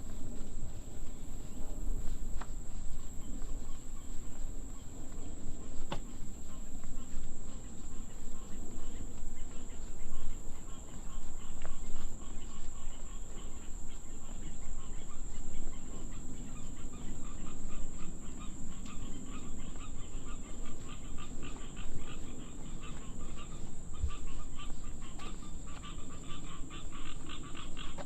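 Insects keep up a steady high-pitched drone while frogs call in rapid pulsing trills that build up over the second half.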